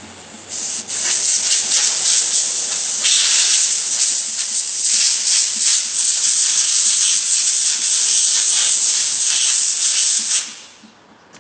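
Compressed air from a blow gun hissing in one long blast of about ten seconds, wavering in strength as it plays over engine parts, then cutting off.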